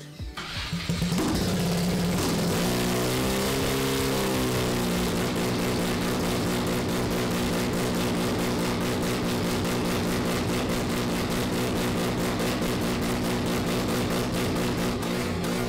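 Mazda 13B two-rotor rotary engine idling steadily with an even pulse. It rises and falls in pitch briefly about three seconds in, and it is being left to idle up to operating temperature on its new cooling system.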